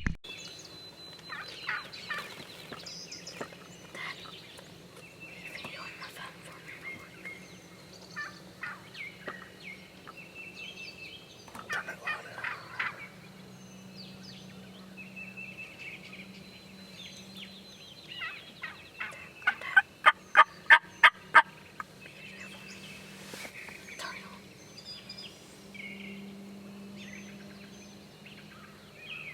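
Turkey yelping: a run of about nine loud, evenly spaced yelps about twenty seconds in, with a shorter, fainter series of notes earlier. Songbirds chirp throughout in the dawn chorus.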